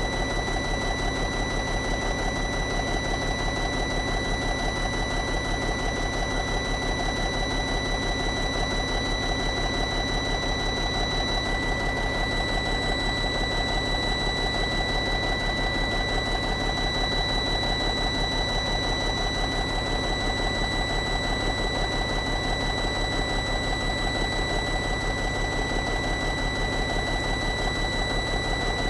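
CAT diesel engine of a 2001 Freightliner FL70 running at a steady idle with a rapid, even pulse, and a steady high-pitched tone sounding over it throughout.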